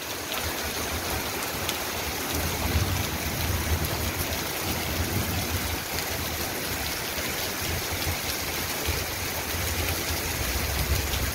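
Heavy rain falling hard in large drops: a steady, even hiss with a low rumble underneath.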